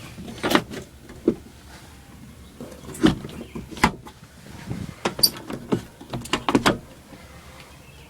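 A series of sharp clunks and clicks, about a dozen over several seconds and bunched together near the end, from a 1996 Toyota Kijang's interior fittings being handled.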